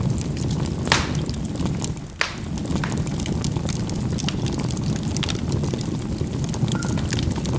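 Charcoal burning in a fireplace: a steady low rumble of the fire, with sharp pops as the charcoal bursts, two loud ones about one and two seconds in, and lighter crackles throughout.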